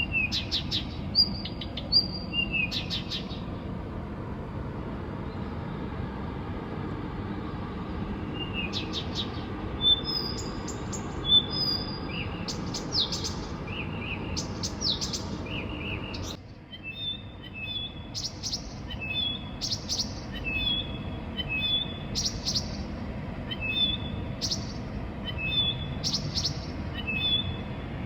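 A songbird singing at night: phrases of short high whistles and clicking trills, with a pause of several seconds early on before the song resumes and grows busier and faster in the second half. A steady low background rumble drops away about halfway through.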